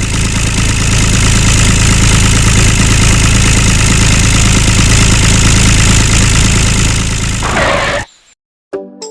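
An engine running steadily at a constant speed, with a low hum under a loud rushing noise. It cuts off abruptly about eight seconds in.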